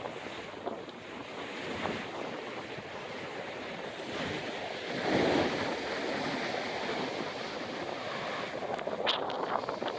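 Surf breaking, with hurricane wind blowing over the microphone. A louder wash of water swells about halfway through, and sharp crackles from gusts hitting the microphone come near the end.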